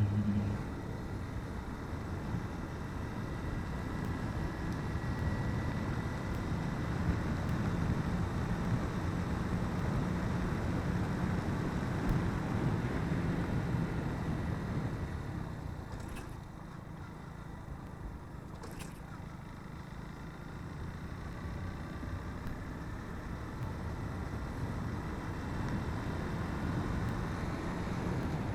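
Motorcycle engine running steadily while riding at road speed, with wind rushing over the microphone. It eases off a little past halfway and builds again near the end.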